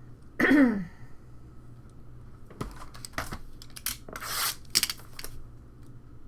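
A short falling vocal sound. Then, from about two and a half seconds in, a run of sharp crinkling, tearing and clicking noises: a sealed box of trading cards being unwrapped and opened.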